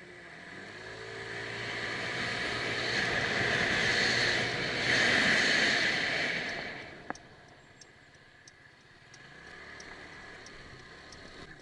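A vehicle engine that swells to its loudest about five or six seconds in and drops away at about seven seconds. A sharp click follows, then faint, evenly spaced ticking.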